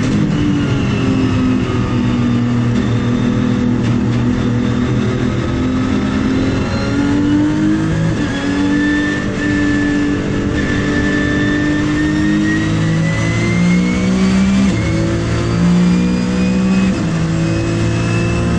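Porsche 997 GT3's naturally aspirated flat-six engine under racing load, its note rising and falling with speed, with sudden drops in pitch from gear changes in the second half.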